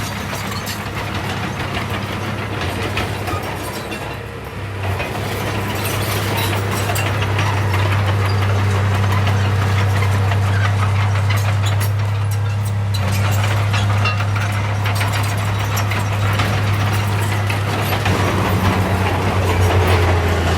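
Heavy diesel earthmoving machine running steadily under load, its engine getting louder about five seconds in, with a busy metallic clanking and rattling over the drone.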